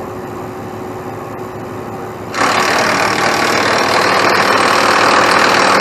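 A truck engine idles steadily. About two seconds in, a loud, rapid mechanical rattle starts abruptly and keeps going.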